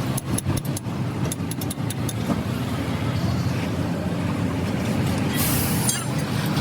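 A motor vehicle engine running steadily, with a series of sharp clicks in the first two seconds and a short hiss about five and a half seconds in.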